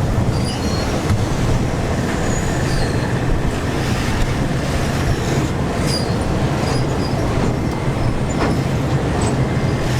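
Steady, even low rumble of a running vehicle engine, with a few faint clicks over it.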